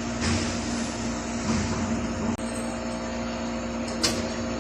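Steady machine hum with a few faint knocks, and a short hissy click near the end.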